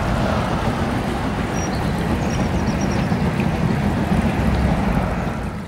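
A passing train rumbles steadily, beginning to fade away at the very end.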